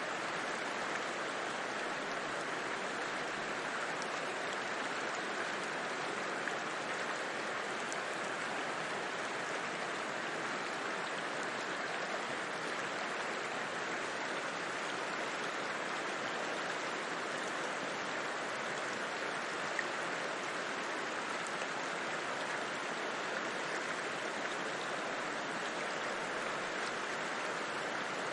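A river flowing: a steady, unbroken rush of moving water.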